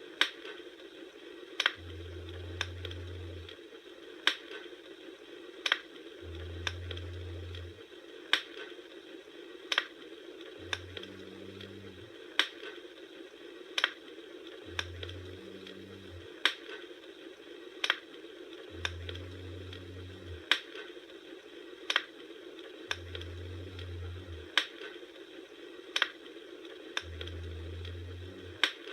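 Wood fire crackling: sharp pops about every second and a half over a steady hiss, with a low rumble that swells and stops every few seconds.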